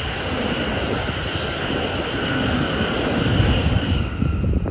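Electric train passing at speed on the tracks below: a loud, steady rushing of wheels and air with a faint motor whine, its high hiss dropping away about four seconds in as the train clears.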